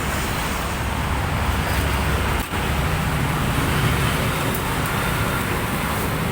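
Steady low rumble of road traffic noise, with a brief drop in level about two and a half seconds in.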